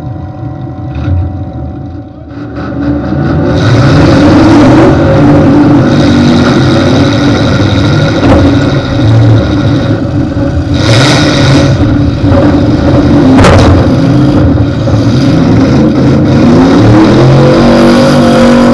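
Derby car's carbureted engine blasting through two open, straight-up exhaust stacks: it runs at idle, then revs hard about three seconds in as the car launches. It keeps running under heavy throttle, with rising revs near the end. Two short sharp noises come around the middle.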